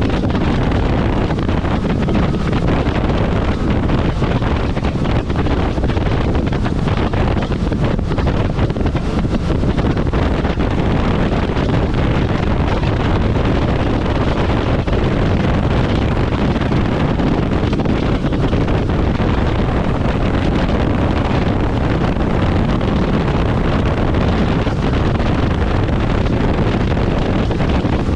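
Steady wind rushing over the microphone of a Kawasaki jet ski running at speed on open water, with the watercraft's engine and water noise under it.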